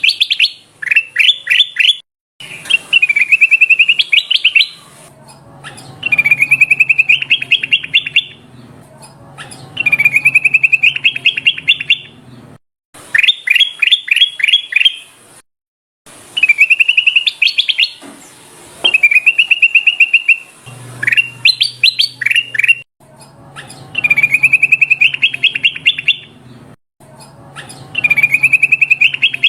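Kutilang emas (ruby-throated bulbul) singing: a rapid run of quick chirping notes repeated as a phrase about every three seconds, some phrases opening with a few sharp downward strokes, with short pauses between.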